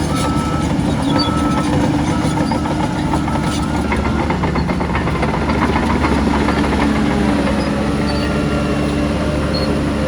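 Heavy diesel earthmoving machinery running steadily, with metallic clatter and rattling throughout. A reversing alarm beeps a couple of times in the first two seconds.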